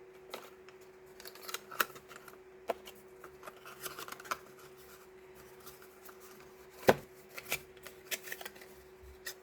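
Small handling noises as stationery items are moved about: scattered clicks, taps and short rustles, with one sharp knock about seven seconds in. A steady low hum runs underneath.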